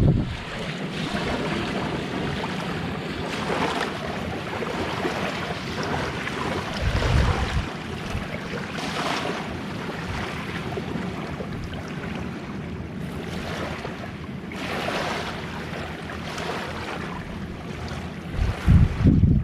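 Small, gentle sea waves washing onto the shore, swelling and fading every few seconds. Wind buffets the microphone in short low rumbles, once near the start, once about a third of the way in, and again near the end.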